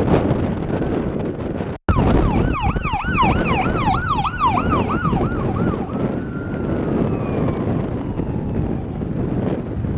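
Wind buffeting the microphone. After a brief dropout, an emergency vehicle siren starts yelping rapidly, about three sweeps a second, for a few seconds. It then changes to a slow wail that falls in pitch.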